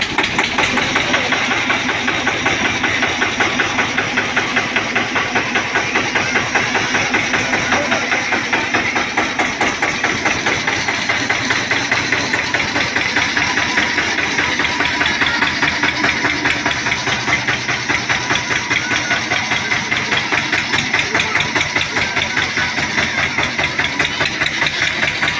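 Eicher 242 tractor's diesel engine running steadily with a regular, even beat.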